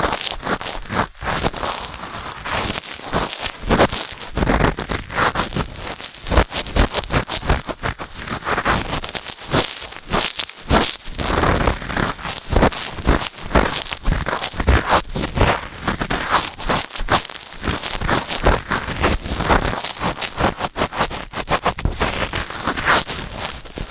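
Cotton swabs rubbing and scratching in the ear of a binaural microphone, close up: a dense, continuous crackling scrape full of fine clicks.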